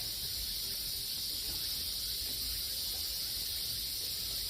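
Steady chorus of insects: an unbroken, high-pitched shrill drone.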